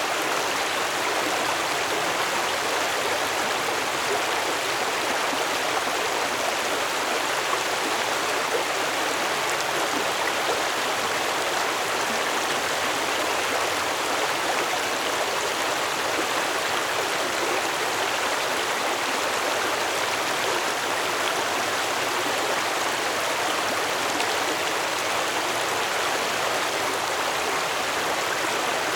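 Stream water flowing steadily over stones, a continuous rushing and burbling with no change in level.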